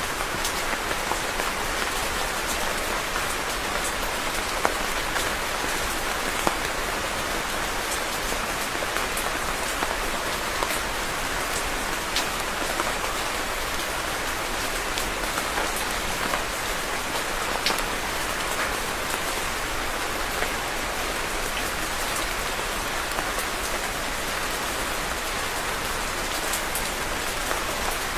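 Steady rain falling, an even hiss of many drops with the odd louder single drop tapping close by.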